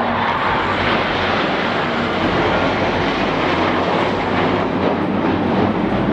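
Aircraft engine noise: a loud, steady rushing noise.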